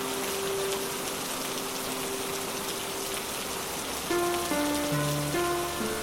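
Steady rain falling, with soft music over it: a single long held note, then a few new notes one after another from about four seconds in.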